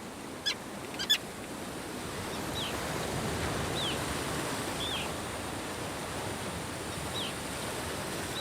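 Common terns calling over the steady wash of sea surf: about six short, high calls spaced a second or more apart, the later ones sliding down in pitch.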